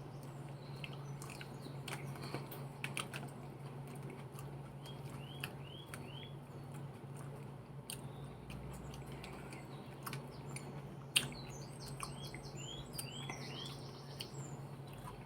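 A person chewing a mouthful of salad close to the microphone, with wet mouth clicks and crunches scattered through, over a steady low hum. Short chirps in groups of three or four come twice, about five and thirteen seconds in.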